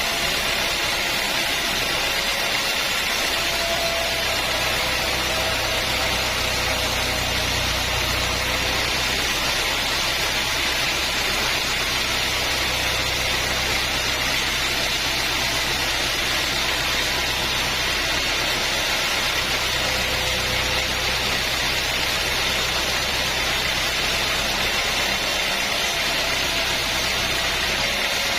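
Sawmill machinery running steadily, an unbroken mechanical noise with a low hum that grows a little stronger about four seconds in.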